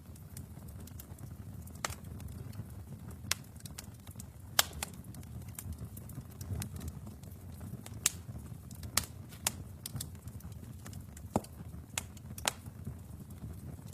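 Wood fire burning in a fireplace: a steady low rumble with about a dozen sharp, irregular crackles and pops, the loudest about four and a half seconds in.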